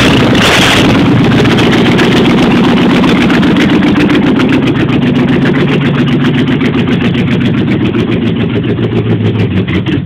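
Jeep Grand Wagoneer's AMC 360 V8 with a two-barrel carburetor running loud on a cold start. From about four seconds in the idle sags into separate firing pulses that come slower and slower as the engine heads toward stalling.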